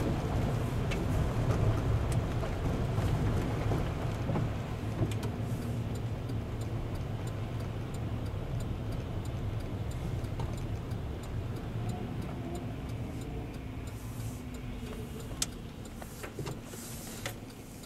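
A car driving, giving a steady low rumble of engine and road noise that slowly fades, with a few faint light ticks.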